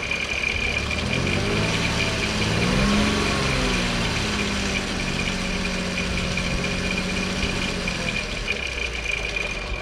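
Volkswagen Eurovan's VR6 engine revved up gently about a second in, peaking around three seconds and easing back to a steady run. The rattle it makes at idle is absent while revved. A steady high whine runs underneath.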